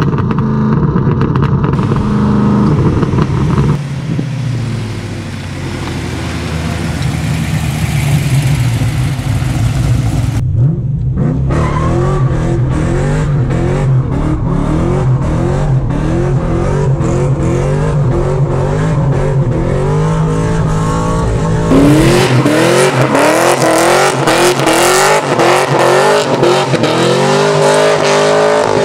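Cammed 6.0-litre LS2 V8 of an HSV VZ Clubsport running loud under load, its pitch rising and falling as it is driven through the gears. In the last several seconds the engine revs up again and again in quick rising sweeps with the rear tyres spinning in a smoky burnout.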